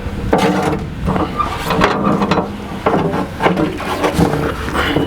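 Irregular knocks and clunks of a poly snow-pusher skid and its leaf springs being shoved and wrestled into position against the steel frame, over a steady low hum.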